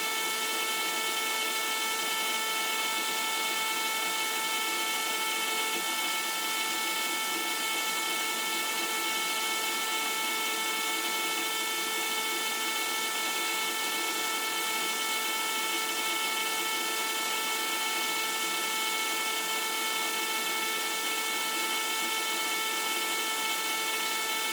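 Small electric circulation pump running steadily, pumping vinegar through a tankless water heater to descale it; a constant hum with a few steady whining tones.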